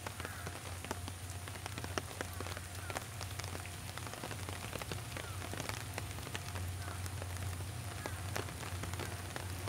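Distant train approaching on the line, a low steady hum, under constant irregular crackling ticks.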